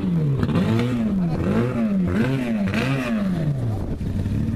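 Autocross race car's engine being revved in short throttle blips, about five in a row, each rising and then falling in pitch. It settles back to idle near the end.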